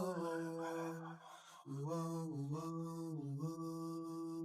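A low voice singing a slow, chant-like melody of long held notes, with a brief pause a little over a second in.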